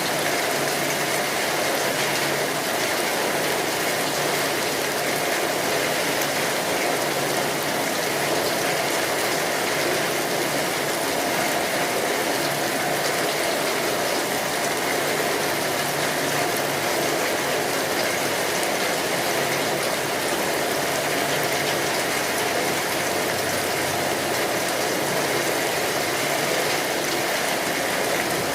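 Rain falling steadily, an even hiss of many drops with no break or change.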